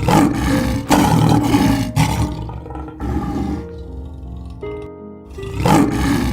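A large animal's loud, rough calls, five in a row, with the last one near the end, over steady background music.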